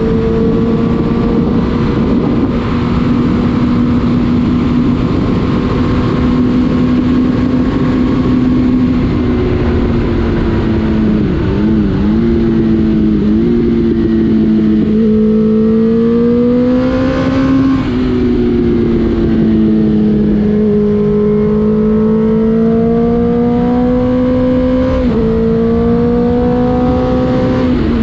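Suzuki GSX-R1000 K6 inline-four running under way, its note rising and falling with the throttle and jumping suddenly in pitch a few times, over a heavy rush of wind.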